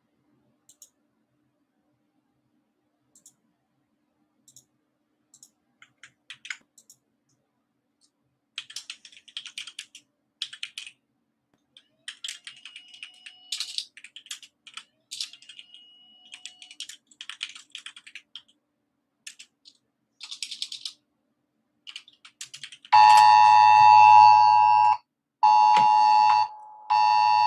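Computer keyboard typing and mouse clicks, a few at first, then quick runs of keystrokes. About 23 seconds in, a loud two-tone emergency alert attention signal from a phone starts, one long tone and then shorter ones: an alert for a tornado warning.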